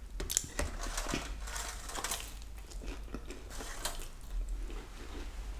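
Close-miked eating sounds: a person chewing pizza and chicken wings, with irregular small clicks and smacks.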